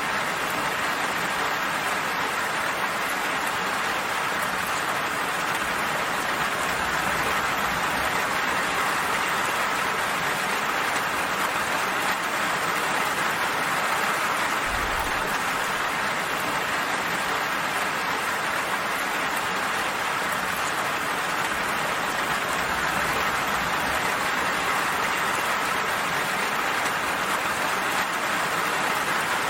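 Steady rain falling, a constant even hiss with no single drops or thunder standing out.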